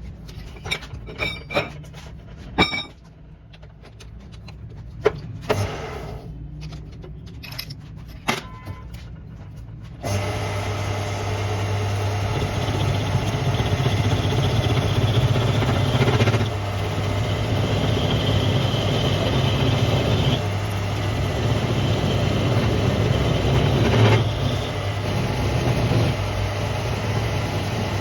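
Scattered sharp metal clicks and knocks over a low hum. About ten seconds in, a lathe starts running steadily with a strong low hum, and a faint high whine comes and goes over it.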